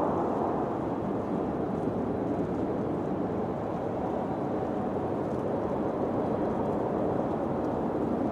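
Wind blowing steadily as a low, even rush, easing slightly right at the start.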